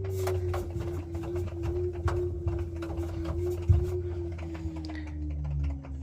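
LG washing machine drum turning, its motor giving a steady whine over a low hum that drops in pitch near the end as the drum slows. Small clicks come from the drum throughout, with one louder knock just before the four-second mark: the clicking the owner calls the machine's one problem.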